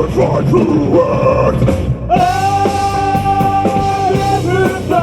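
A metal band playing live, with distorted guitars, bass and drums. About two seconds in the music drops out for a moment and comes back in on long held notes.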